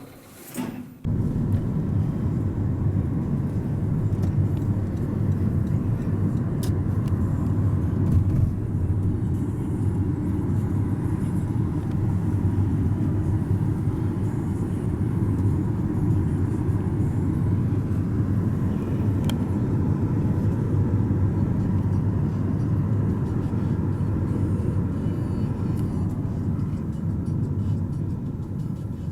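Steady low vehicle rumble that starts abruptly about a second in and holds at an even level.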